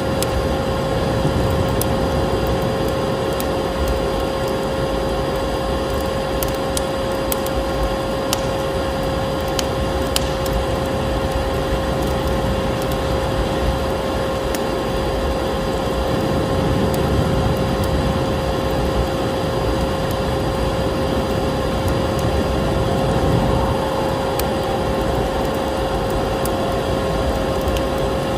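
Vacuum cleaner motor running steadily with a constant whine, layered with a wood fire crackling in a fireplace, scattered sharp crackles over the hum.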